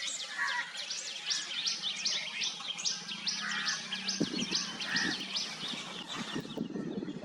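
Outdoor birdsong: a high chirp repeated about three times a second, with a few softer, lower calls in between. The chirping fades out near the end.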